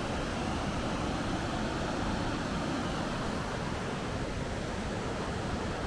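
Steady rushing noise spread evenly from deep to high pitches, with no tones or rhythm.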